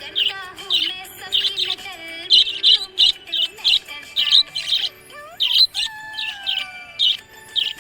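Budgerigars chirping: short, sharp chirps repeated about twice a second, with a rising and then slowly falling whistled note a little past the middle.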